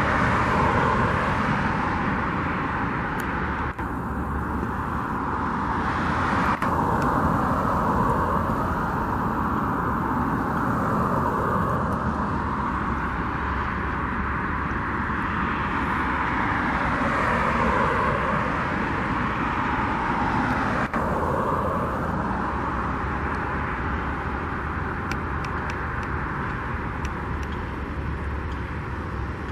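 Road traffic passing: a steady rush of tyres and engines that swells and eases several times as vehicles go by.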